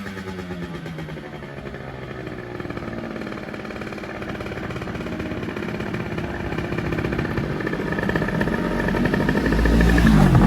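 50cc motorbike engine under way: its pitch falls as it slows at the start, then it runs on and grows steadily louder as it picks up speed.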